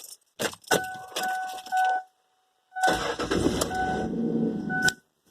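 Keys jingling in a truck's ignition with a steady warning chime tone, then about three seconds in the engine cranks and starts, running loudly for about two seconds before dropping away.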